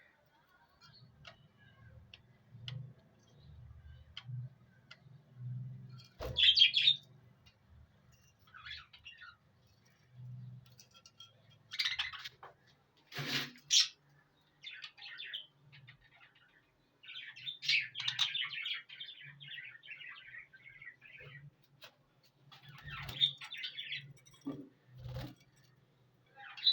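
Pet parrots chirping and chattering in irregular bouts, with quiet gaps between.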